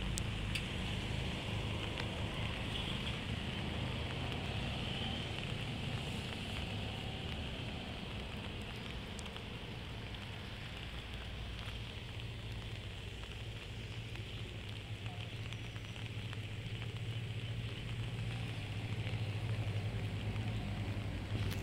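Steady noise of heavy rain, with a low hum underneath that grows a little stronger in the second half.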